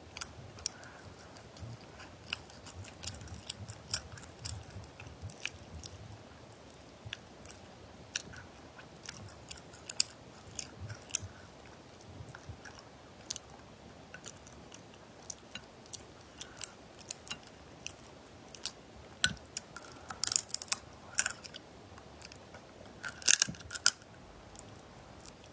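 Close-up chewing and biting of spicy shell-on crayfish: a run of sharp clicks and cracks of shell and mouth sounds, loudest in two clusters about twenty and twenty-three seconds in.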